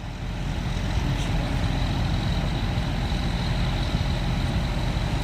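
Heavy vehicle engine running steadily at idle, a low steady drone with background noise.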